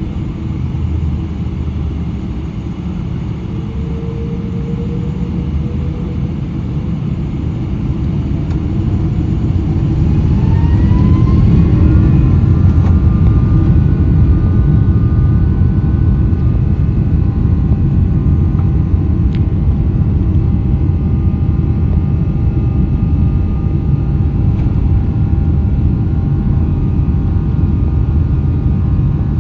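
Boeing 777-300's Rolls-Royce Trent 800 turbofans heard in the cabin, spooling up for takeoff: a rising whine about ten seconds in as the thrust builds, then a steady loud rumble with the engine tones held high.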